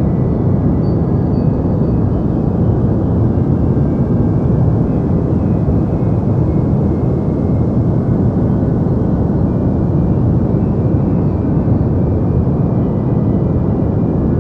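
Deep white noise for sleep: a steady, unbroken low rush with most of its weight in the bass and little hiss on top.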